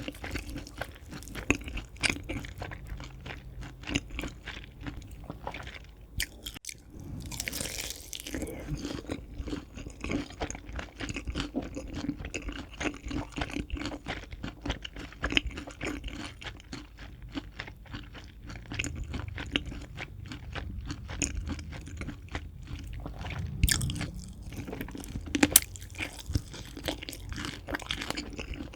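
Crispy fried chicken being bitten and chewed close to the microphone: a steady run of crunching as the crisp coating breaks, with the loudest crunches near the end.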